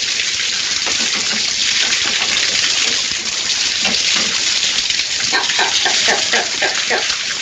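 Water gushing and spraying steadily from leaking pipes. Past the middle comes a rapid run of short pitched cries, about five a second.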